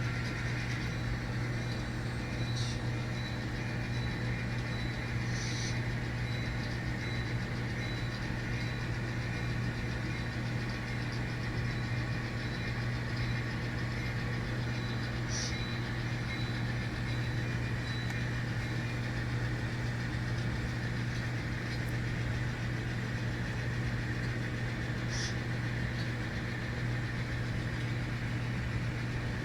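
Steady low hum from a running N scale model train layout, even throughout, with a few faint light clicks.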